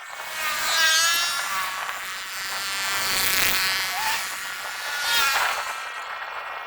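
A small motor buzzing, its pitch swelling up and down several times.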